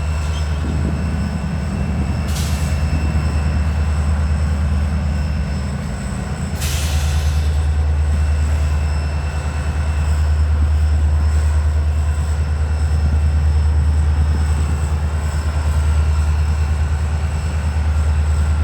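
Diesel locomotives running in a rail yard: a steady, loud low engine rumble, with two short hisses about two and seven seconds in.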